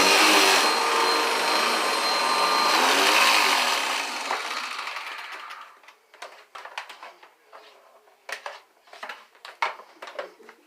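Vacuum cleaner running, then switched off about three and a half seconds in, its motor winding down over the next two seconds. Faint scattered clicks and knocks follow.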